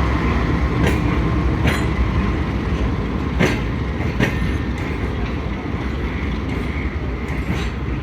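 Passenger train rolling through the station with a steady rumble. Its wheels clack over rail joints in pairs, one pair about every two and a half seconds.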